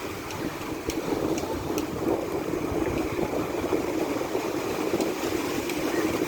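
Ocean waves washing in, a steady rushing noise that swells a little about a second in.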